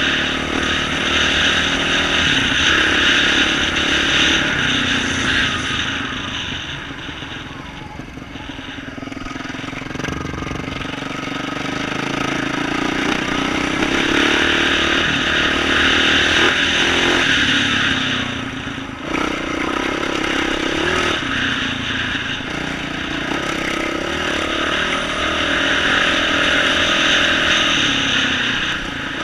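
2012 Yamaha YZ450F dirt bike's single-cylinder four-stroke engine with an aftermarket exhaust, running under changing throttle while ridden on a trail. The sound falls away for a few seconds about a quarter of the way in and dips briefly about two-thirds of the way through.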